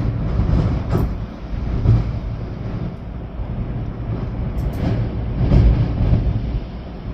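Storm wind gusting hard, rising and easing, with a heavy low rumble of wind buffeting the microphone over rain. A few sharp taps cut through, about a second in and again around the middle.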